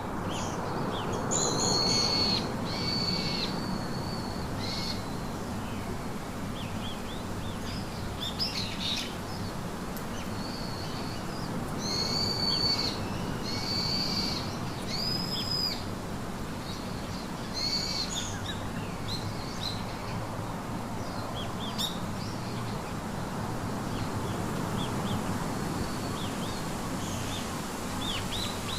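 Wild birds calling and singing: short, high whistled notes, some of them clear held whistles, come in clusters about 2 seconds in, again from about 12 to 16 seconds, and near 18 seconds. Fainter chirps fill the gaps, over a steady background hiss.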